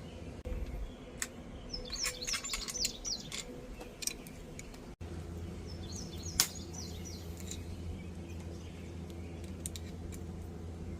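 Small birds chirping in two short flurries of quick high chirps, with a few sharp clicks and a steady low hum underneath.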